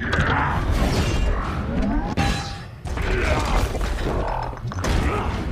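Film action sound effects: metallic mechanical clanks, creaks and impacts under a music score.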